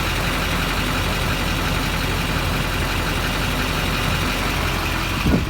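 Duramax 6.6L LBZ V8 diesel idling steadily, with a brief low thump near the end.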